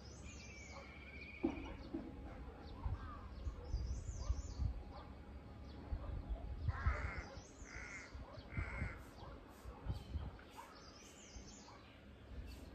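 Birds calling outdoors: three loud, harsh calls about a second apart midway, with scattered higher chirps from smaller birds over a low rumble.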